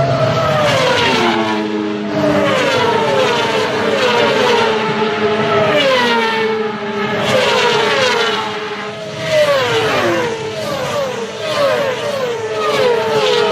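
Racing superbike engines at high revs, the engine note dropping in pitch again and again, about once a second, over a steady engine tone.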